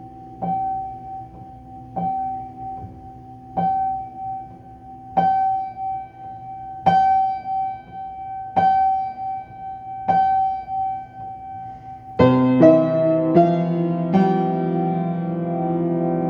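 Solo piano: a single high note repeated about every second and a half over a held low chord, then about twelve seconds in a full chord struck, followed by a few more chords left ringing.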